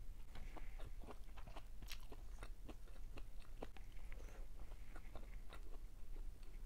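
Close-up chewing and biting of food by a person eating: a dense run of short, crunchy clicks.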